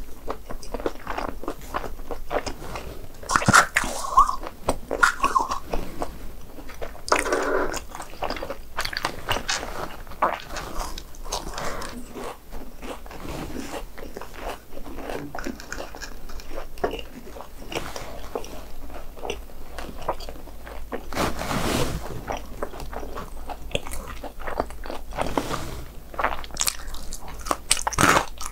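Repeated crunchy bites and chewing of crispy fried BHC Bburing snacks, with irregular crackling crunches throughout.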